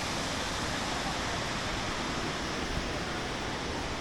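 Steady rushing of a waterfall, an even wash of water noise without break or change.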